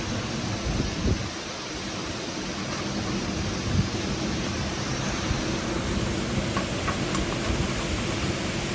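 Heavy rain and strong wind of a thunderstorm: a dense, steady rush of noise whose gusts rise and fall, with a few sharp taps near the end.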